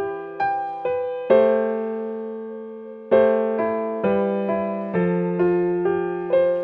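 Gentle piano music: single notes struck about twice a second, each fading away, with a chord held from about a second in until about three seconds in.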